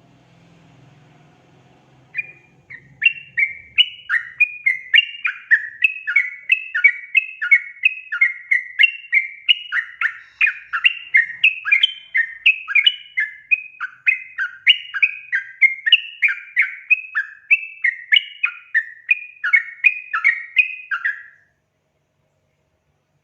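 Yellow-vented bulbul (trucukan) song: a long, unbroken run of short, lively chattering notes at about two to three a second. It starts about two seconds in and stops abruptly near the end.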